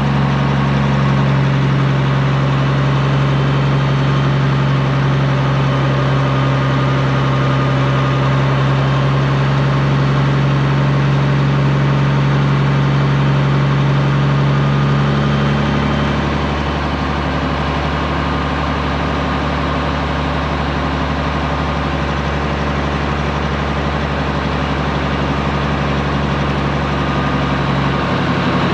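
Straight-piped Peterbilt 389 diesel engine running steadily at low revs. Its tone drops slightly and gets a little quieter about halfway through, then comes back up near the end.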